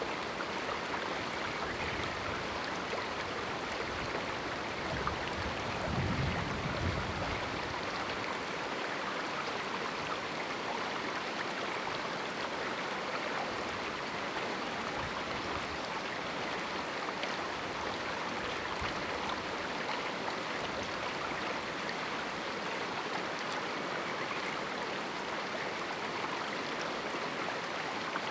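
Small canyon river flowing steadily, an even rushing of water. A brief low rumble about six seconds in.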